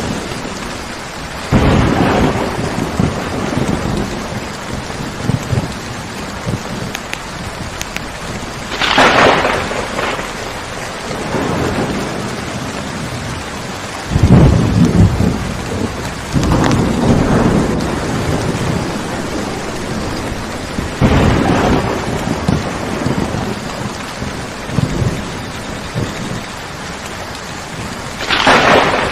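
Steady rain falling, with thunder rumbling and cracking several times, the sharpest claps about a third of the way in and near the end.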